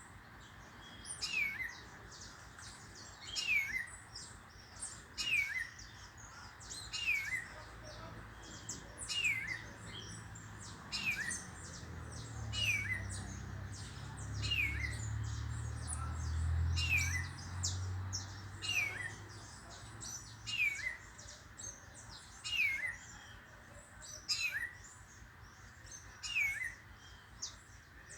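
A bird repeating one short, high call that falls in pitch, about once every two seconds. A low rumble rises and fades in the middle.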